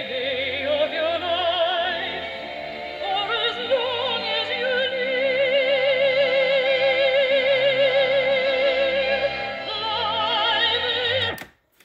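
Operatic singing with strong vibrato over accompaniment, played back on a restored Sony TC-200 reel-to-reel tape recorder. A long note is held through the middle, and the music cuts off abruptly near the end.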